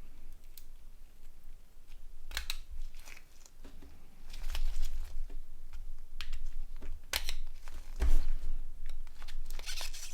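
Scattered small clicks, taps and scrapes of a Nokia N80 phone's plastic parts being handled and pried apart by hand, at irregular intervals.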